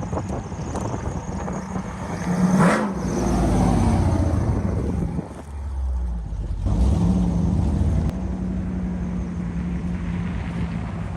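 LS V8 engine of a 1953 Chevy 3100 pickup running as the truck drives by. The engine note swells with a quick shift in pitch a few seconds in, drops back briefly around the middle, then picks up again and holds steady.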